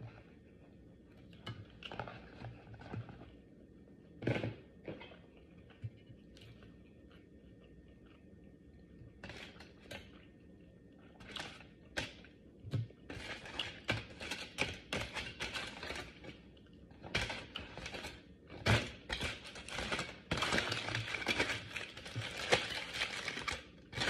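Close-miked eating: chewing with soft clicks and knocks of a utensil on a takeout container. In the second half it turns into dense, crackly handling and rustling noise.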